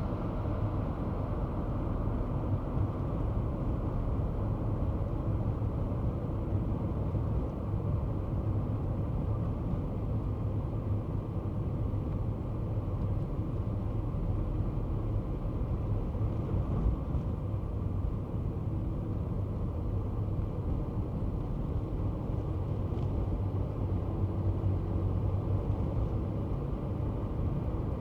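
Kei car driving, a steady low rumble of engine and road noise with no distinct events.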